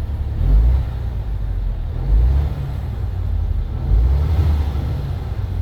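MAN TGX 26.510 truck's straight-six diesel idling with a low rumble, revved briefly three times, each rev rising and dropping back to idle.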